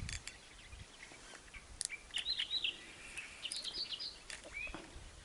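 Birds chirping faintly: a quick cluster of short chirps about two seconds in, another about three and a half seconds in, and a short rising call near the end, over quiet background with a few faint clicks.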